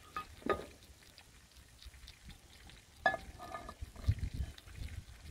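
Thin-sliced potato chips frying in oil in a cast-iron Dutch oven, a soft steady sizzle, with two brief sharper sounds, one near the start and one about three seconds in.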